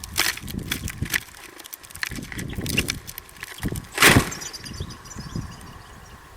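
Birds at a feeder: a run of small taps and knocks with one louder knock about four seconds in, and gusts of wind rumbling on the microphone. Faint high twittering in the second half.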